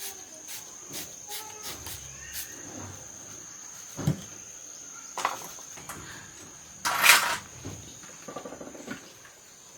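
A steady high-pitched insect drone, with scattered clicks, a sharp knock about four seconds in, and a louder short rushing burst about seven seconds in, followed by a brief rattle.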